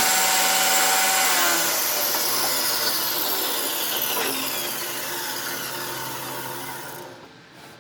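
Table saw running and cutting a wooden fence picket. From about two seconds in, its whine slides steadily lower in pitch as it grows quieter, dying away near the end as the blade spins down.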